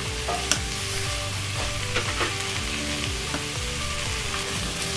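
Shallots, mushrooms and freshly added chopped garlic sizzling steadily in hot oil in a cast iron Dutch oven, sweating down, with a few light clicks.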